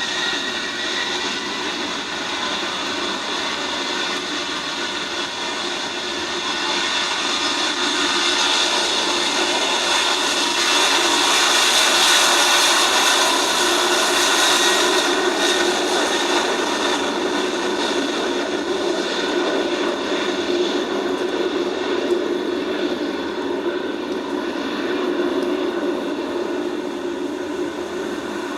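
Jet airliner's turbine engines: a whine that rises and levels off at the start, over a steady engine noise that swells to its loudest about halfway through and then eases off.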